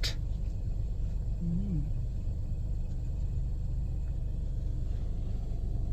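Car's low, steady rumble of engine and tyres as it creeps slowly into the wash bay, heard from inside the cabin. About one and a half seconds in there is a brief rising-and-falling hum.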